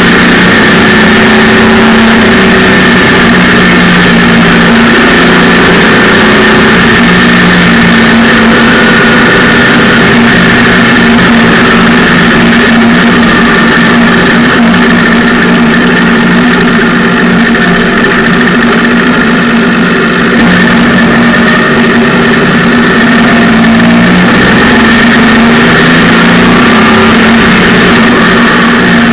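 Daihatsu Charade 1000cc three-cylinder engine in a Hajadu FK600 kit car, running loud and close at fairly steady revs.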